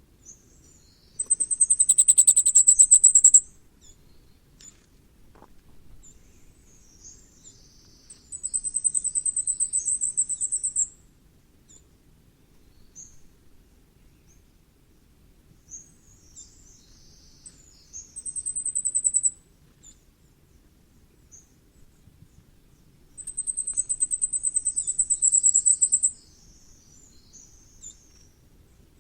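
Common firecrest singing: four songs, each a rapid run of very high, thin notes that grows louder toward its end, with softer high calls in between.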